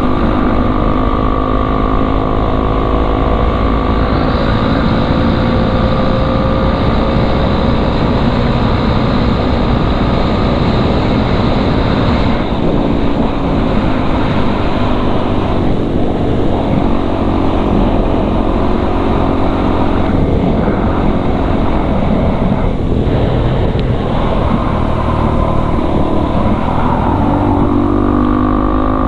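KTM RC 390's single-cylinder engine running through a cat-deleted IXIL exhaust at highway speed under fairly steady throttle, its pitch drifting slowly up and down, over a continuous rush of wind and road noise.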